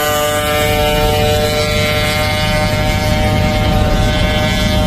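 Vehicle engine running at a steady high cruising speed, holding an even pitch, with a low rumble of road and wind noise.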